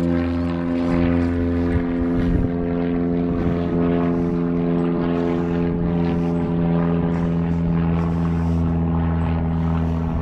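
A steady engine-like drone holding one pitch, loud and unchanging.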